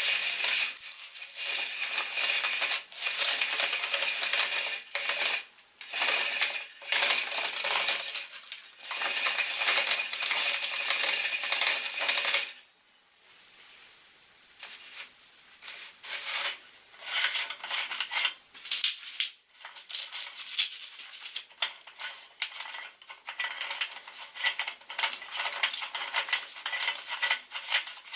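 Meat grinder crushing matchsticks: dense metallic rattling and cracking, with a ringing metal tone. About halfway through it drops off briefly, then goes on as sparser clicks and rattles.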